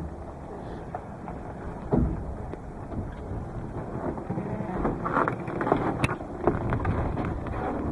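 Strong gusting wind buffeting the microphone, a low rumbling noise, with a sharp knock about two seconds in and a few short clicks later on.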